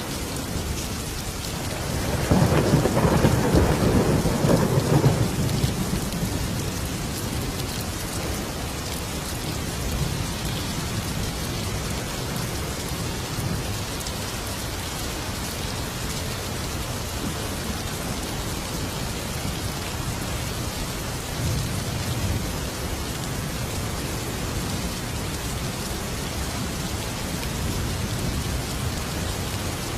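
Steady heavy rain with thunder: a loud rolling rumble of thunder about two seconds in, lasting some four seconds, and a fainter rumble past the middle.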